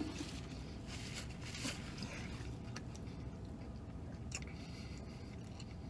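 Close-up chewing of a mouthful of burger: soft wet mouth sounds with a few faint clicks and rustles, over a steady low hum inside a car cabin.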